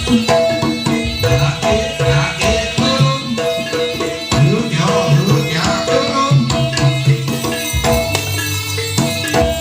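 Live jaranan (kuda lumping) folk music: hand drums beat a busy rhythm over ringing held tones from the ensemble.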